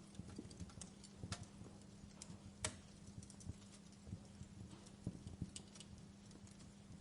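Wood fire crackling in a fireplace: irregular small snaps and pops, one sharper pop a little under three seconds in, over a faint steady low hum.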